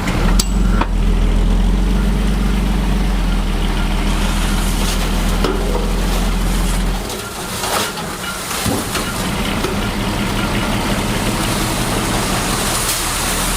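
Heavy construction machine's diesel engine running with a strong, steady low drone. About seven seconds in it drops off, and it keeps running more quietly with a few knocks.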